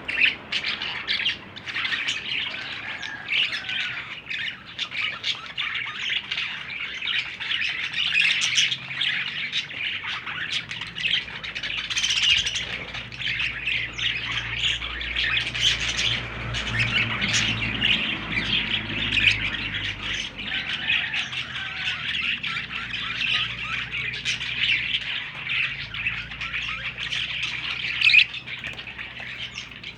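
Baby budgerigars chirping and squawking in a dense, continuous chatter of short, rapid calls.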